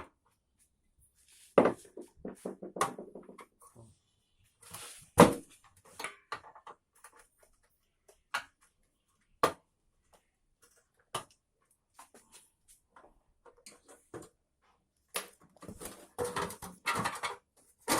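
Scattered sharp clicks and knocks of a spanner and metal gas-stove parts while rusted fittings are being unscrewed, the loudest knock about five seconds in.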